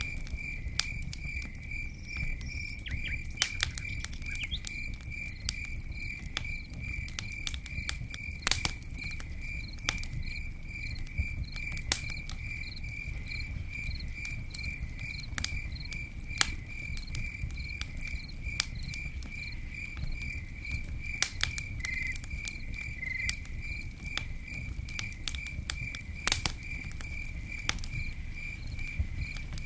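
Campfire crackling: a steady low rush of burning wood with scattered sharp pops and snaps. Over it a cricket chirps steadily in even, high-pitched pulses, about two or three a second.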